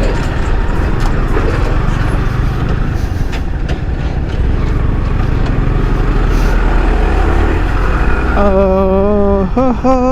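Highway ride on a Yamaha R15 V3 sport bike: wind rush over the helmet camera and the bike's single-cylinder engine under steady throttle. About eight seconds in, a vehicle horn starts blowing a steady note, breaks off for a moment and sounds again.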